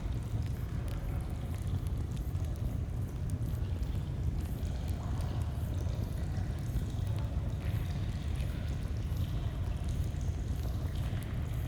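Steady rush of a flowing stream with scattered, light crackles of a campfire.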